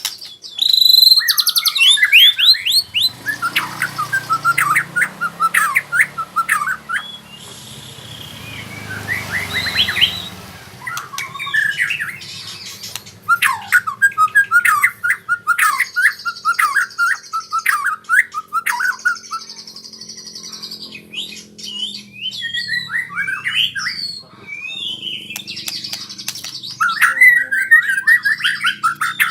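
White-rumped shama singing: fast runs of short, clear whistled notes and quick trills, phrase after phrase with brief pauses between, a young bird practising its rolling song.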